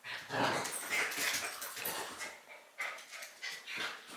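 Pet dog making irregular breathy sounds close to the microphone, strongest in the first two seconds and then trailing off into smaller ones.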